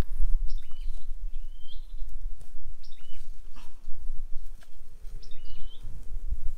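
A small bird chirps about four times, each a short high call that dips and then levels off. Under it are rustling, clicks and low handling noise as a live greater coucal is handled.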